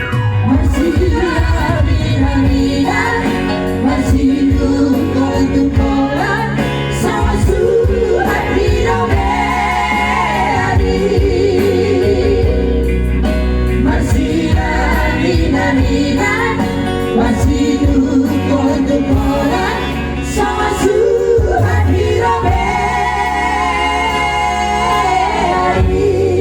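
Singing over backing music, with long wavering held notes above a steady bass line.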